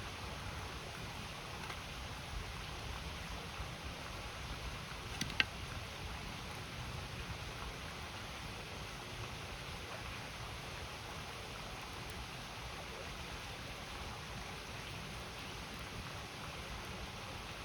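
A river flowing in a steady rush, with a wood fire crackling now and then and one sharp pop about five seconds in.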